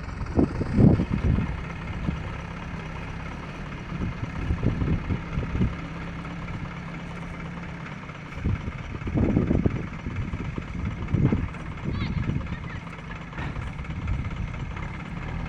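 Heavy diesel engine idling with a steady low hum, broken several times by short louder bursts.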